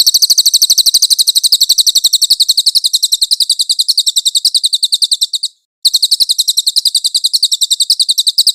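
A songbird's fast, high-pitched trill: long runs of evenly repeated notes, about ten a second, broken by a short pause a little past halfway.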